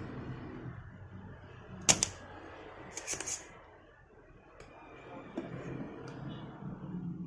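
Small hard objects being handled on a workbench: one sharp click about two seconds in and a quick run of clicks about a second later, over a low steady hum.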